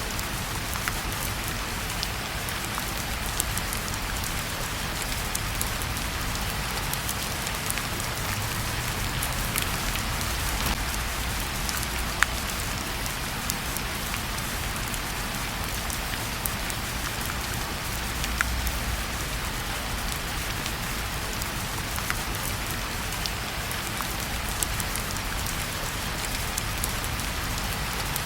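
Steady rain falling, with scattered sharp crackles and pops from a wood fire in a fireplace over a low rumble.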